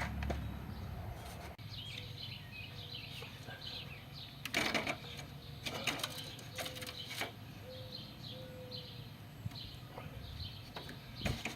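Small birds chirping over and over, with a few sharp clicks and knocks around the middle.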